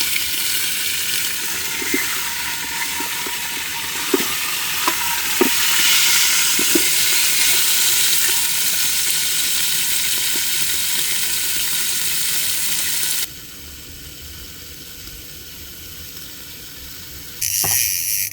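Beef shanks searing in hot peanut oil in a pan: a steady sizzle with a few sharp pops or taps. About 13 seconds in it cuts off abruptly to a quieter steady hiss, and a louder noise comes in shortly before the end.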